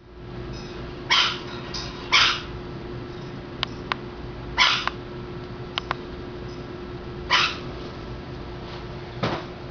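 Blue-crowned conure giving four short, harsh squawks spaced a second or more apart, with a few faint clicks in between over a steady low hum.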